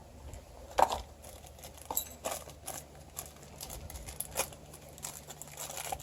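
Scattered light clicks, taps and rustles of things being handled, the sharpest about a second in, over a faint steady low hum.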